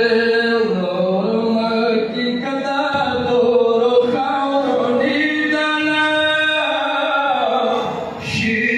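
Male voices chanting an unaccompanied mourning recitation, long notes held and drawn out with slow pitch changes, with a short break near the end.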